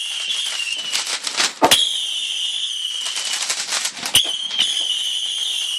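Fireworks crackling, with two sharp bangs about two and a half seconds apart, over a steady high-pitched whistle that starts again after each bang.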